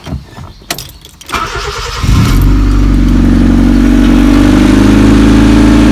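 Key clicking in the ignition, then a Honda Civic's engine cranking on the starter and catching about two seconds in. It settles into a loud, steady idle through a broken exhaust.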